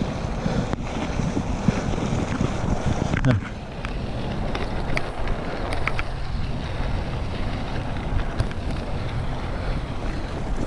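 Wind buffeting the microphone of a rider on a moving mountain bike: a steady rushing noise with a heavy low rumble and a few light clicks.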